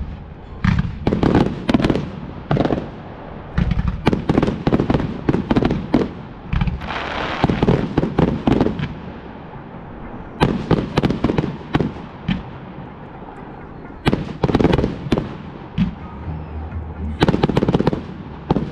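Fireworks display: volleys of rapid sharp bangs, separated by short lulls, with a stretch of crackling hiss about seven seconds in.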